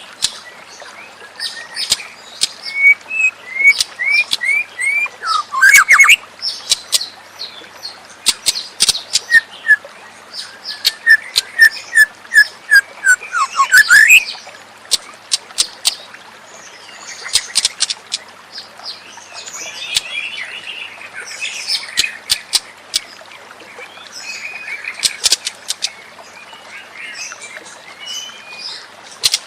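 White-rumped shama (murai batu) singing a long, varied song: quick runs of four or five repeated whistled notes, sweeping upward glides and many sharp clicking notes, in phrases separated by short pauses.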